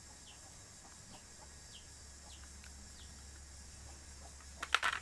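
Faint, short, high chirping calls from birds, repeating about every half second. Near the end comes a brief clatter of sharp clicks from toys being handled.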